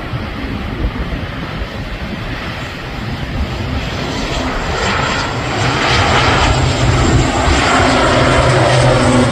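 Airliner taking off, its engines a rumbling roar that grows louder about halfway through as the aircraft comes nearer, with a steady low hum in the sound.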